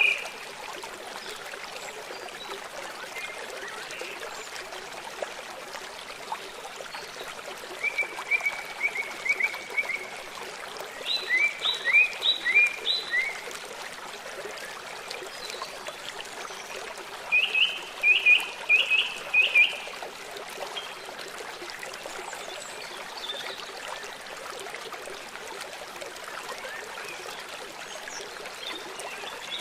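Songbirds singing short phrases of quick repeated chirps, three or four bouts a few seconds apart, over the steady rush of a flowing stream.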